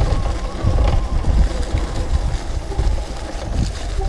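Wind buffeting an action camera's microphone while riding an electric dirt bike: a heavy, uneven low rumble with a steady haze of ride noise.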